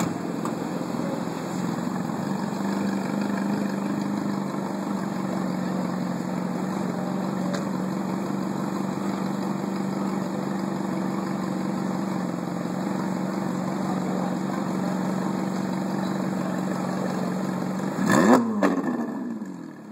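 Ferrari 458 Italia's V8 running steadily at idle, then one short, loud rev near the end that rises and falls in pitch before the sound drops away.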